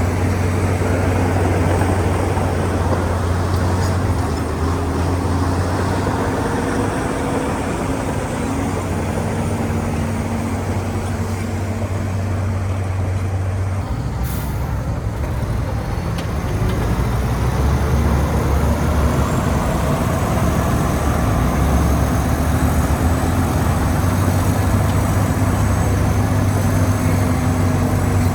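Heavy diesel engine of earthmoving machinery running steadily with a deep drone. Its pitch and loudness shift about halfway through, and it grows a little louder soon after.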